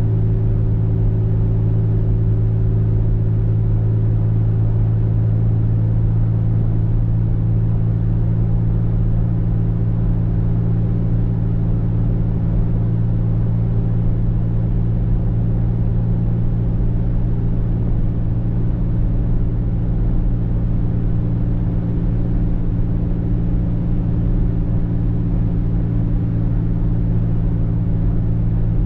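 A car driving at a steady speed: a constant low drone of engine and road noise, with no change in pitch or level.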